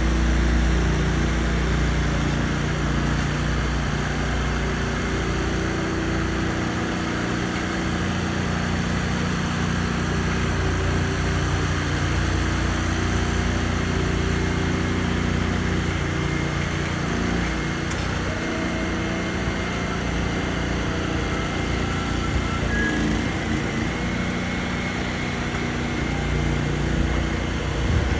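A truck's engine running steadily, with a low hum and mechanical drone throughout.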